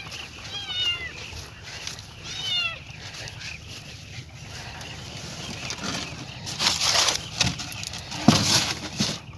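A cat meowing twice, two short calls about two seconds apart, followed by rustling noises and a sharp thump near the end.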